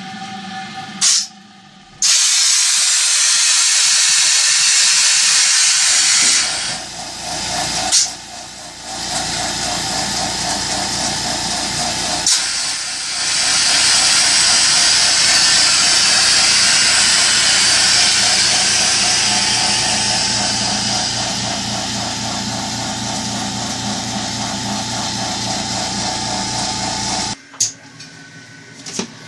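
Kudzu-juice processing machinery running with a loud, steady hiss over a whirring mechanical drone; it starts about two seconds in, falters briefly a couple of times, and cuts off suddenly near the end.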